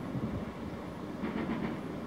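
Fireworks display between bursts: a low, steady rumble with a quick run of faint crackles a little past halfway.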